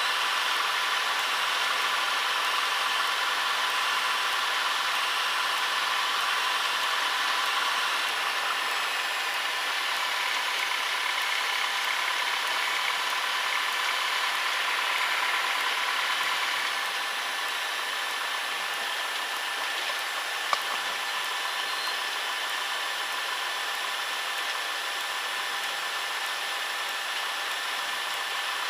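Cessna 152's four-cylinder Lycoming engine and propeller idling steadily, heard as a constant drone inside the cockpit while the aircraft holds on the runway before takeoff. The drone drops slightly in level a little past halfway, and a single sharp click sounds about two-thirds of the way through.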